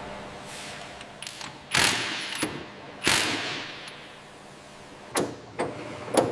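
Tire-fitting tool sounds: scattered mechanical clicks and two short loud whirring bursts a little over a second apart, each trailing off.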